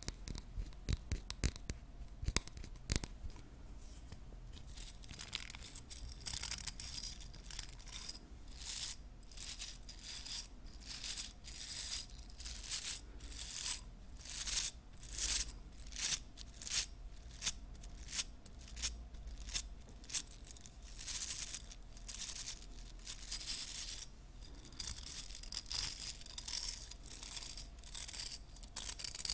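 Hairbrush bristles scraping in quick, repeated strokes, a scratchy hiss on each stroke, after a few sharp taps at the start.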